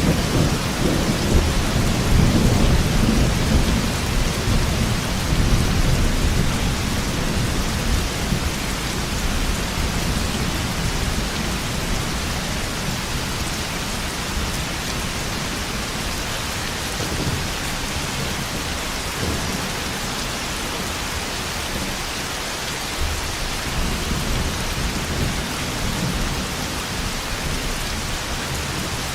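Steady heavy rain with rolling thunder. The thunder is loudest in the first few seconds and dies away, then comes back faintly later on.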